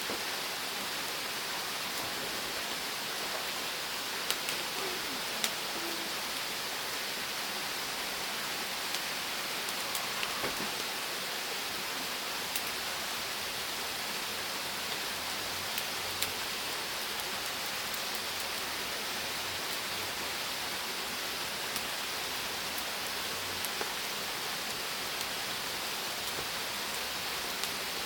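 Meat and onions sizzling on a grill over a wood-charcoal fire: a steady hiss with scattered sharp pops and crackles.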